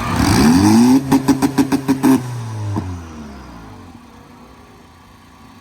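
Tuned 2015 Audi A3 Quattro's 2.0-litre turbo four with hood exit exhaust launching down the drag strip. The revs rise, stutter in sharp pulses about six times a second for a little over a second, then the car pulls away and its engine sound falls in pitch and fades off.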